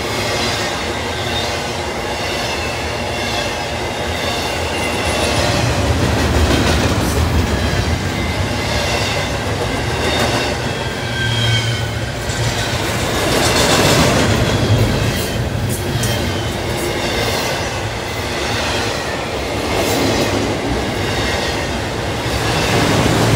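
Double-stack intermodal train cars rolling past: a steady rumble of steel wheels on rail with clickety-clack and a faint high squeal from the wheels, swelling and easing as the cars go by.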